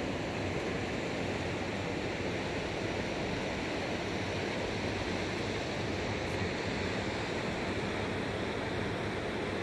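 Fast-flowing mountain river rushing steadily, a constant, even roar of water.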